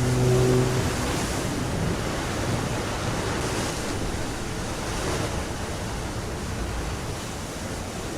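Rushing, surging water noise that swells and eases a few times. A low steady hum stops just under a second in.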